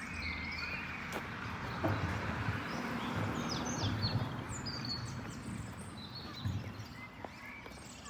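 Small birds chirping and whistling in short, repeated calls over a steady low rumble and hiss of background noise.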